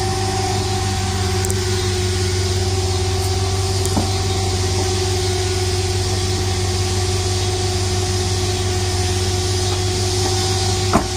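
Stretch limousine's engine idling, a steady, unchanging hum with hiss, loud enough to be called noisy. A short knock about four seconds in and a sharper one near the end.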